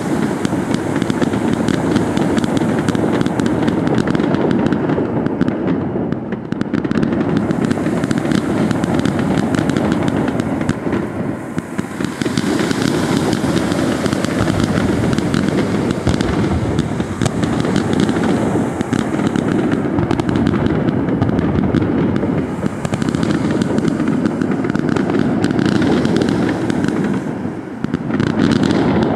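Fireworks going off in a continuous rapid barrage of bangs and crackles, easing briefly a few times.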